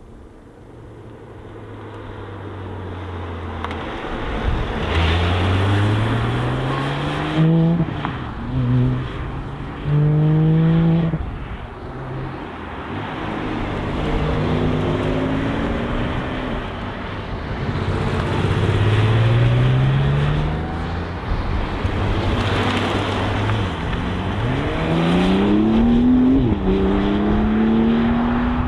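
Sports car engines accelerating hard in several runs, each climbing in pitch and dropping sharply at the upshifts, the sound swelling and fading as each car goes by.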